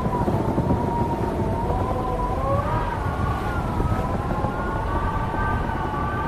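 Wind howling, several whistling tones slowly rising and falling together over a low, steady rumble of wind noise.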